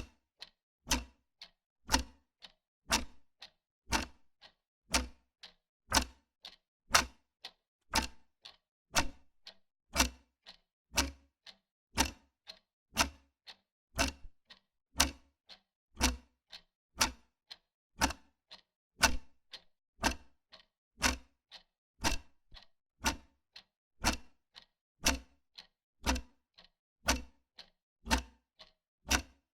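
Wall clock ticking: a steady, even tick-tock of sharp clicks.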